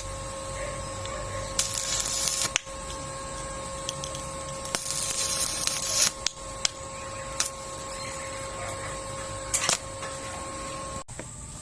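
Arc welding: three bursts of crackling arc hiss, each about a second long, over a steady electrical whine that cuts off suddenly near the end.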